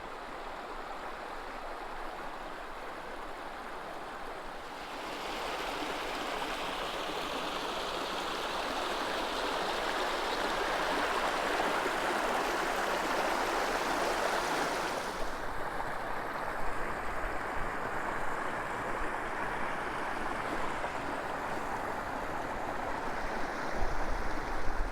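Creek water rushing and gurgling steadily. It grows louder about five seconds in, then falls back around fifteen seconds in.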